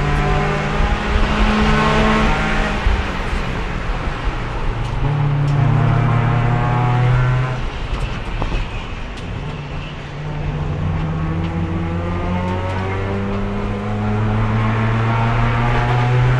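Race car engine heard from on board, running hard with its pitch rising and falling with the throttle. About halfway through it eases off and drops in pitch, then pulls back up. There are no gear changes, because the worn-out transmission has no third gear and won't shift at speed, so it is held in fourth.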